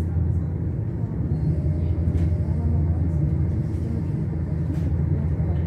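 Steady low rumble of a train running along the track, heard from inside the carriage, with a few faint clicks.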